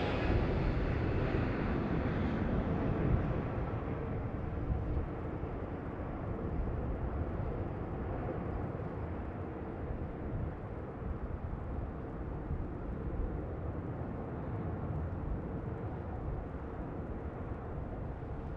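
Jet airliner's engines heard passing and fading, loudest and brightest in the first few seconds and then a duller steady rumble, with gusty wind rumbling on the microphone.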